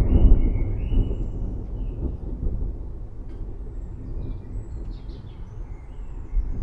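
Rolling thunder: a loud, deep rumble right at the start that slowly fades over the next few seconds. Faint high chirps sound above it.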